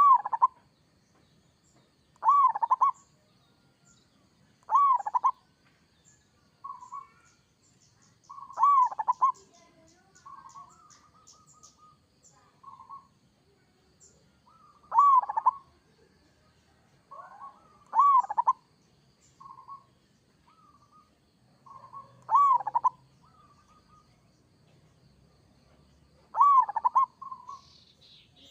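Zebra dove (perkutut) cooing: a loud call of a few quick notes every few seconds, with softer calls in between. Faint high chirps of a small bird come about a third of the way in.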